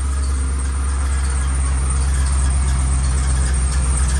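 Dump truck engine idling with a steady low drone; a slightly higher hum joins about a second and a half in.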